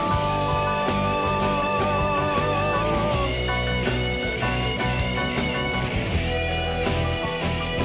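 Instrumental break in a rock-pop band arrangement: a lead guitar holds long notes with vibrato over bass and steady drums. About three seconds in, the lead line moves up to higher notes.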